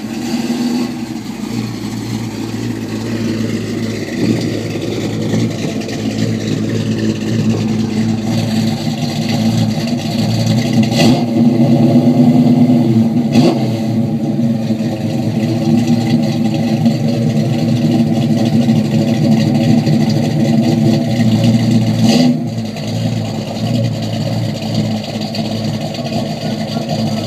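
A 1972 Oldsmobile Cutlass 442's V8 engine running at a drag strip starting line while the car is staged. The engine note is steady, grows louder about ten seconds in and drops back about twenty-two seconds in, with a few short, sharp blips of the throttle.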